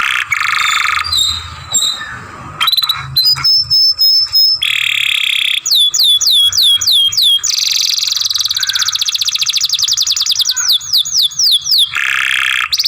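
Domestic canary singing in tours: short phrases each repeating one syllable. There are runs of steady high notes, a string of quick falling sweeps at about four a second, and a long, very fast trill in the middle, followed by more falling sweeps.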